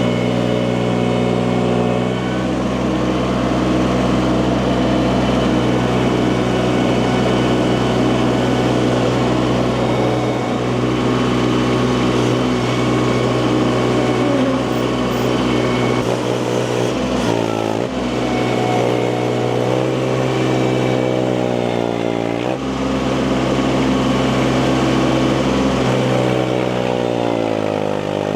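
Engine of log-splitting equipment running steadily. Three times in the second half its pitch sags briefly and comes back up, as the engine is loaded and recovers.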